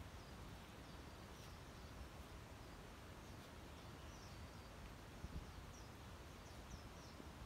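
Near silence: a faint low outdoor rumble with several faint, short, high chirps of small birds scattered through it.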